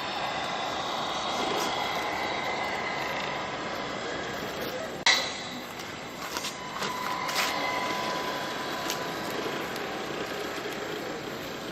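1/14-scale Tamiya Mercedes-Benz RC tractor truck running, with a steady mechanical whine from its drive. A sharp loud click about five seconds in, then a few lighter clicks.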